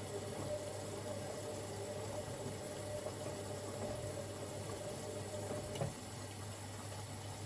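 Siemens Extraklasse XLs 140 A front-loading washing machine early in a wash cycle, water running in over a steady low hum. About six seconds in there is a click, and a steady higher tone in the sound stops.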